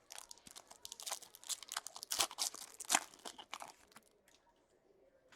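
A trading card pack wrapper being torn open and crinkled: a dense run of sharp crackles that stops about four seconds in.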